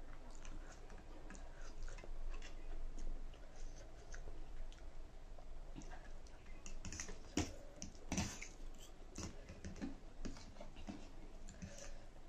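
Someone eating spicy ramen noodles: irregular small clicks and chewing sounds, with a few louder noisy mouth sounds about seven and eight seconds in.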